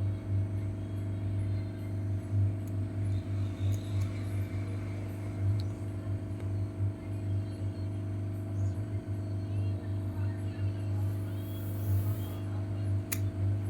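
Steady low electrical hum with a few fainter steady tones above it, with faint small ticks and one sharp click near the end.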